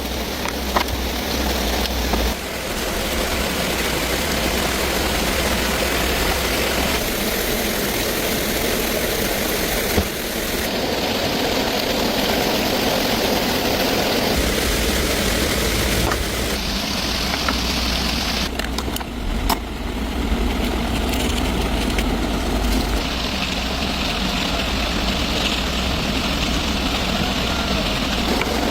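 Steady mechanical running noise, like a motor or engine, whose tone changes abruptly every few seconds, with a few sharp clicks.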